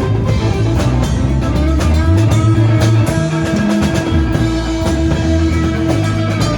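Live rock and roll band playing: electric guitar and bass over a drum kit, loud and steady, with no singing.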